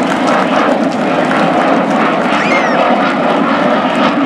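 Navy F/A-18 Super Hornet's jet engines, a loud, steady noise as the fighter flies over.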